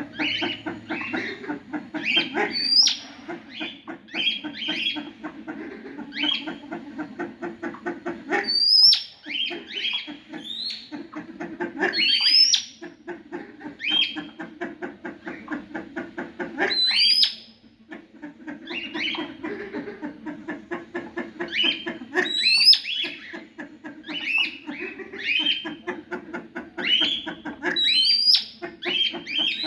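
A group of birds calling continuously: a fast, rapidly pulsing chatter with frequent sharp, rising calls on top.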